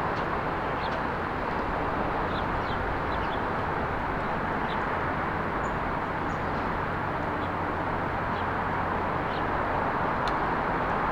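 Steady hum of road traffic, with scattered short, high chirps from small birds.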